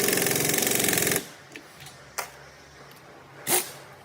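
A power tool running with a fast, rattling hammer, which cuts off suddenly about a second in. Two sharp knocks follow, the second louder.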